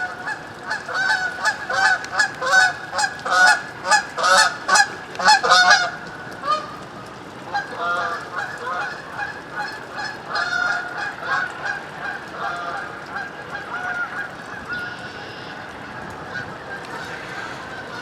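Geese honking in a rapid, irregular series of short calls, loudest for the first six seconds, then fainter and sparser.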